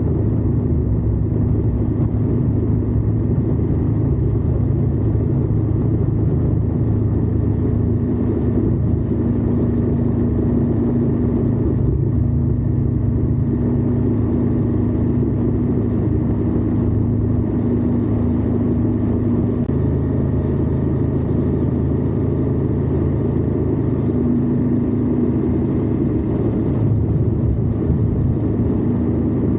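Indian Scout motorcycle's V-twin engine running steadily under way at an even speed, a constant low engine sound with no gear changes or sudden events.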